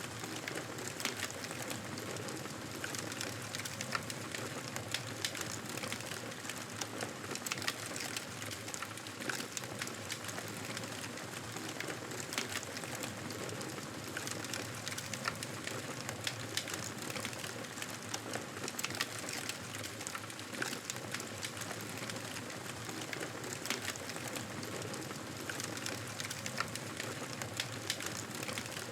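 Wood fire crackling: a steady hiss with frequent small, irregular pops and snaps.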